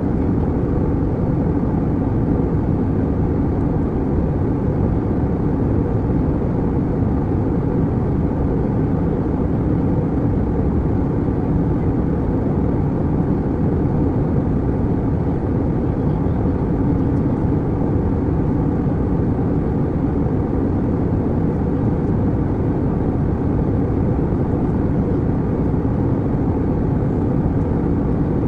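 Steady, even drone of an airplane cabin in flight: engine and airflow noise, deep and unchanging.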